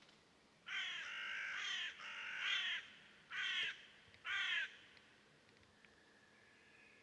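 A bird calling four times: two longer calls, then two short ones about a second apart.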